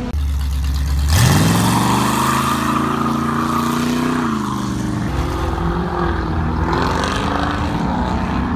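A car engine revs up sharply about a second in, holds at high revs for a few seconds, then drops back, with engines running on at lower revs afterwards.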